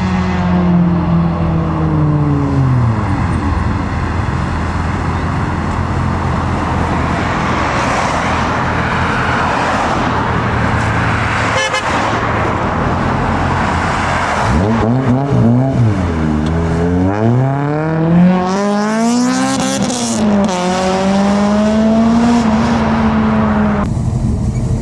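Modified performance cars leaving a meet: an engine note drops away at the start, then a stretch of exhaust and road noise. Later an engine is revved up and down several times and settles into a steady note.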